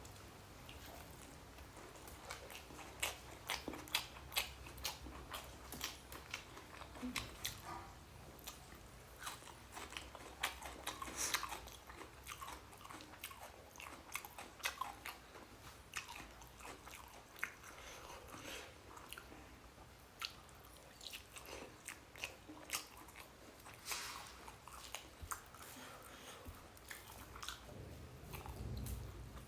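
A person chewing and biting a mouthful of rice and egg curry close to the microphone: many irregular wet mouth clicks and smacks, with some crunching.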